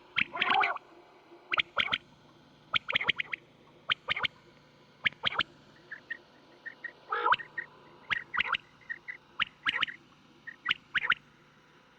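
Quail calling: sharp short notes in quick clusters of two or three, repeated about once a second, with fainter short notes between them. A steady low hum runs underneath.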